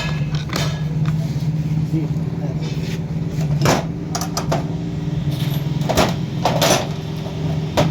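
A steady engine-like hum runs throughout, with a few sharp knocks or clinks, the loudest about halfway through and two more about six seconds in.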